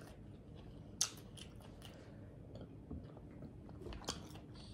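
Close-miked chewing of a mouthful of Caesar salad with salmon, with a few sharp mouth clicks and smacks; the loudest comes about a second in.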